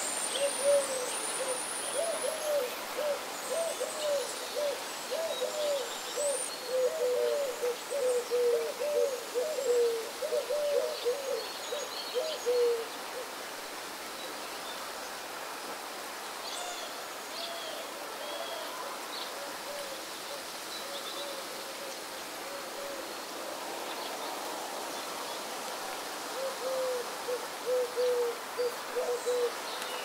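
A bird calling a long run of short, low notes, about three a second; it breaks off about twelve seconds in, comes back faintly, then louder again near the end. Thin, high chirps of small birds sound over a steady outdoor hiss.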